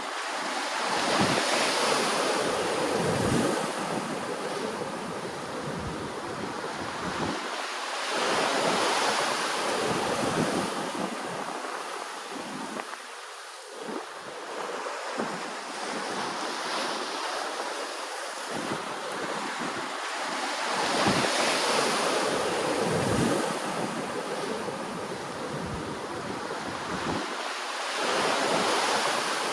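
Ocean waves washing ashore, a rushing wash that swells and falls back about every six to seven seconds.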